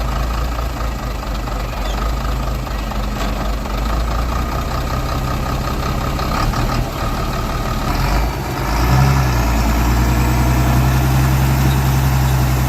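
Heavy truck engine running hard under load as the truck tries to pull out of the mud, revving up about eight and a half seconds in and holding at the higher revs.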